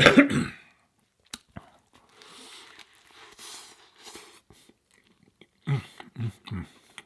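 Close-up chewing of a mouthful of food. It is quieter through the middle and is broken by a short voiced sound at the start and three short voiced sounds near the end.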